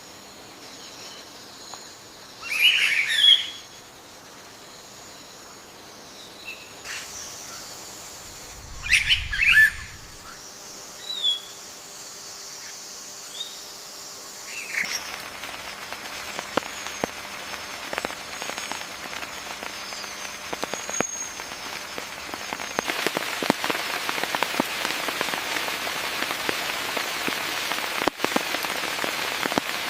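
Two short bursts of bird calls a few seconds apart, with a few faint chirps after them. Then rain sets in about halfway through, a steady patter of drops that grows heavier near the end.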